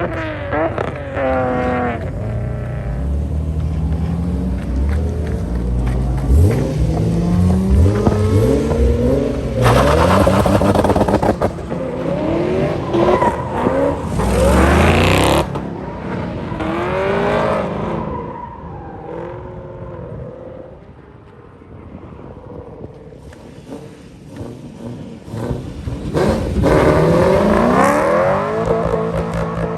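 Sports car engines revving and accelerating hard, their pitch climbing and dropping back again and again as the gears change. The loudest runs come about ten to fifteen seconds in and again near the end, with a quieter lull shortly after the middle.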